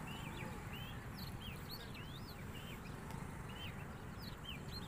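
Birds chirping with many short rising and falling notes, over steady background noise.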